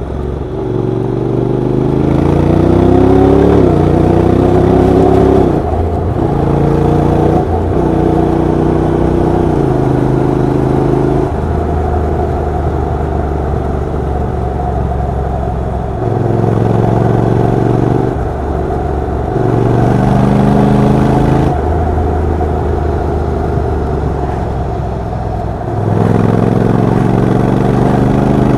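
Honda NC750X DCT's parallel-twin engine and exhaust under way: the pitch climbs steadily over the first few seconds, then the engine holds steady at several pitches, jumping suddenly up or down every few seconds as the revs and gears change.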